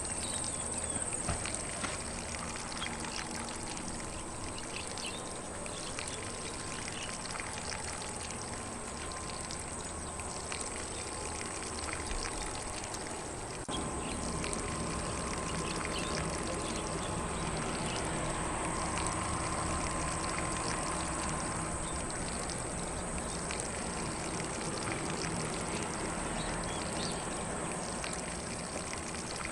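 Lawn sprinkler spraying water onto grass: a steady hiss and patter of falling drops, a little louder from about halfway, with faint bird calls behind.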